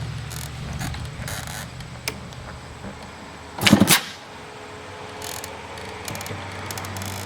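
1990 KTM 300 EXC two-stroke engine running at a low idle, with one short, loud burst about halfway through.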